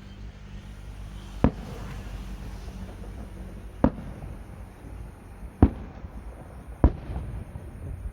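Fireworks going off: four sharp bangs, irregularly spaced a second or two apart, over a steady low rumble.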